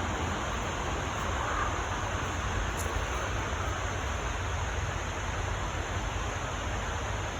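Steady outdoor background hiss with a low, unsteady rumble underneath; no distinct event stands out.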